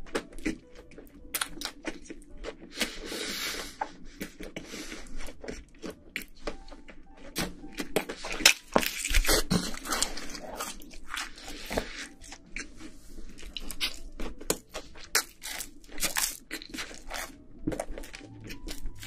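Close-up chewing of a big mouthful of pizza: irregular wet mouth clicks and crunches of crust.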